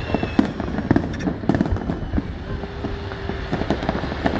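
Fireworks going off in quick succession: a dense, irregular run of bangs and crackling pops over a low rumble.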